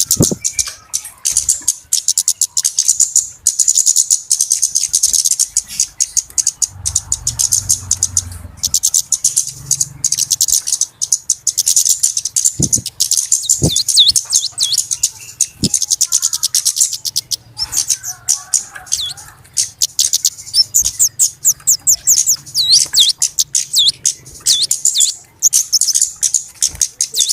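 Flowerpeckers (burung cabe-cabean) calling in a busy, noisy chatter of rapid, high-pitched ticking chips in dense runs, with short downward-swooping notes now and then. This is a trappers' lure call. A few sharp clicks stand out in the middle.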